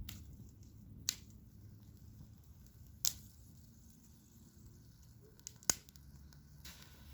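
Wood campfire crackling: three sharp pops about a second, three seconds and nearly six seconds in, with a few fainter ticks, over a low steady rumble.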